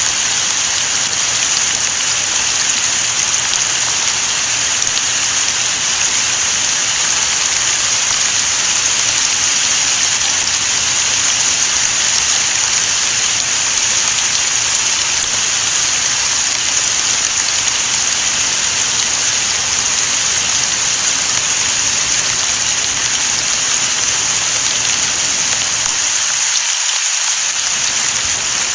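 Steady rain falling: an even, unbroken hiss of drops on surfaces.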